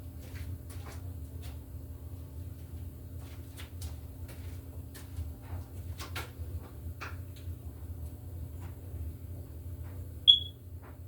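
Faint scattered clicks and rustles over a steady low rumble, then, about ten seconds in, a single short high-pitched electronic beep, the loudest sound.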